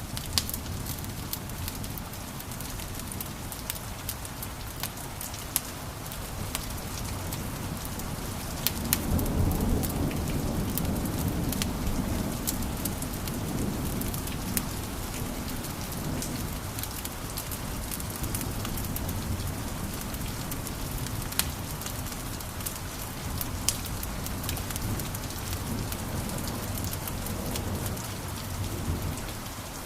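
Wood fire crackling in a fireplace: a steady hiss with sharp pops scattered throughout, and a low rumble that swells in about nine seconds in.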